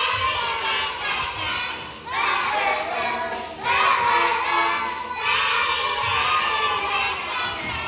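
A group of young children's voices sounding out together in several long, loud phrases, each new phrase starting with a rising sweep.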